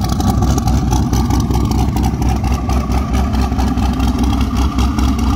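Twin-turbo destroked 6.0 L LS V8 with an Elgin 1841-P stage 3 cam, idling loud and uneven through its dual hood-exit turbo outlets. The idle holds steady, with no revving.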